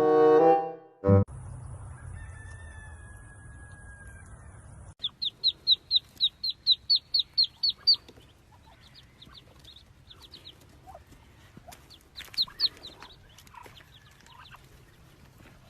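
A bird peeping: a quick run of about a dozen short, high peeps, roughly four a second, then scattered fainter peeps. A louder pitched sound before it cuts off about a second in.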